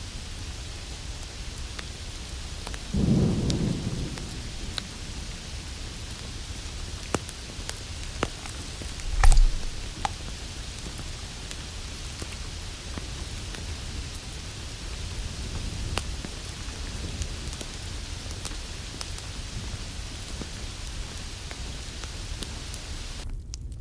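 Ambience track of a lit fireplace with added noises: a steady hiss with scattered crackles, a short low rumble about three seconds in and a heavy thump about nine seconds in. The hiss cuts off just before the end.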